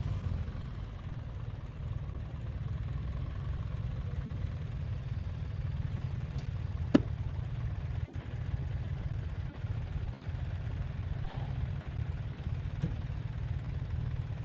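Motorcycle engine idling with a steady low rumble, and a single sharp click about seven seconds in.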